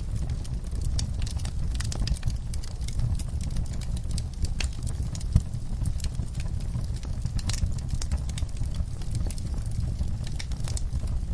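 Wood fire crackling, with irregular snaps and pops over a steady low rumble of burning logs. One louder pop comes about five seconds in.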